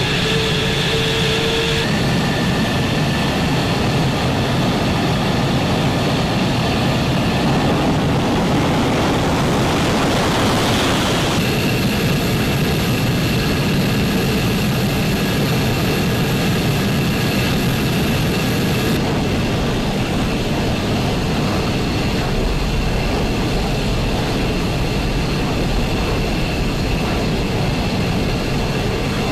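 Fighter jet engines running: a loud, steady rush of noise carrying high turbine whines, whose set of pitches changes abruptly about 2, 11 and 19 seconds in.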